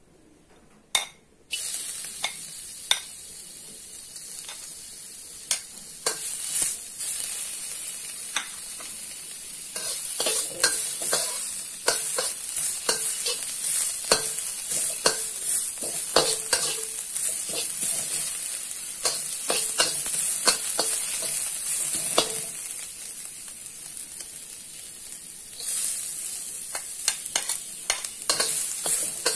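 Julienned ginger hitting hot oil in a carbon-steel wok, starting to sizzle suddenly a second and a half in, with a metal spatula scraping and clicking against the wok as it is stirred. The sizzle grows louder again near the end as minced garlic goes into the oil.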